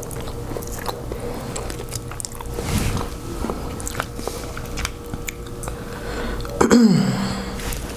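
Close-miked chewing and biting of king crab from a seafood boil, with small wet clicks and smacks. There is a brief vocal sound near the end.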